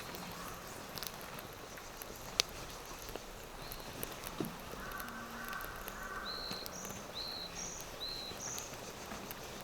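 Outdoor forest ambience with a small bird calling: a quick series of short, high chirps alternating between two pitches, starting a little before halfway, over faint scattered ticks.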